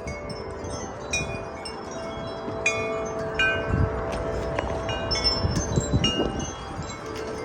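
Several wind chimes ringing hard in strong gusting wind: many quick, bright, high strikes over lower tones that ring on. Gusts rumble on the microphone now and then.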